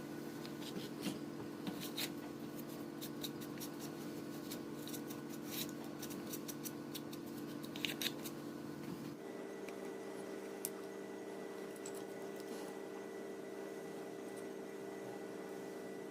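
Scattered light clicks and snips of hands working small parts, over a steady hum. About nine seconds in the hum changes to a higher tone and the clicks almost stop.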